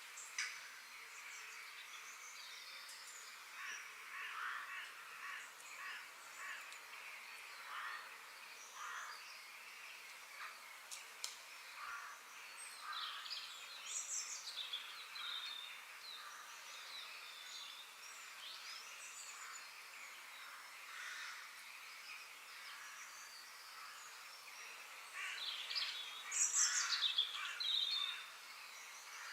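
Wild birds chirping and calling, many short scattered notes and quick pitch glides over a steady faint hiss, with a louder flurry of calls near the end.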